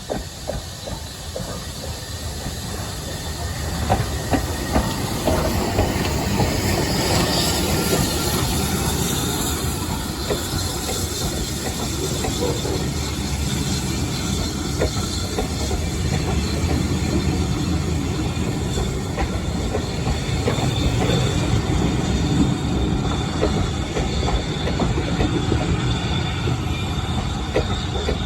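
A train running past on the heritage line. Its wheels click over the rail joints and its steel wheels squeal on the rails. The sound swells about four seconds in and stays loud after that.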